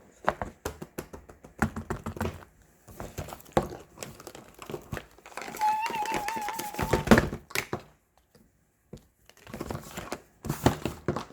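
Handmade paper squishies, taped over, being handled and squeezed: irregular crinkling and rustling with small taps and clicks. A short wavering tone is heard about halfway through.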